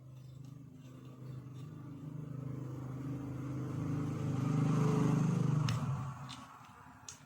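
Electric trimmer motor running with a steady buzzing hum that swells louder, then winds down and stops about six seconds in, followed by a few sharp clicks.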